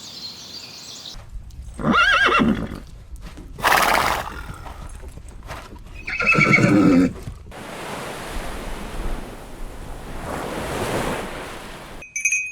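An animal calling twice, about four seconds apart, in pitched calls that waver up and down, with a short noisy blow between them, then a steady rushing noise.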